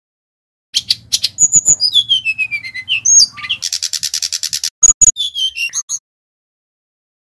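Sikatan rimba dada coklat (brown-chested jungle flycatcher) singing. After a brief silence it gives a loud run of rapid sharp chips and falling whistled notes with a dense dry trill in the middle, then stops about six seconds in.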